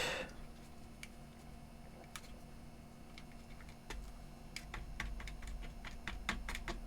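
Faint, scattered small clicks and taps of hands handling the open portable CD player's plastic parts while oiling its switches, more frequent in the second half.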